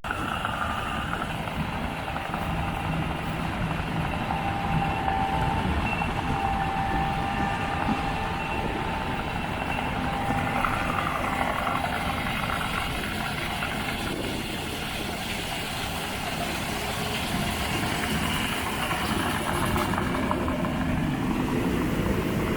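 Combine harvester running steadily, a continuous machine hum with faint whining tones over it.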